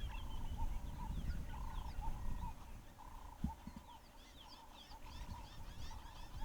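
Birds calling: a steady run of repeated short notes in the middle register, with many quick high chirps that grow busier in the second half. A low rumble sits under the first couple of seconds.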